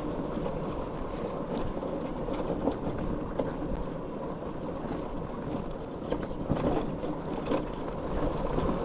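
Motorcycle coasting downhill: steady wind and road noise with a faint low hum, and a few brief knocks from bumps.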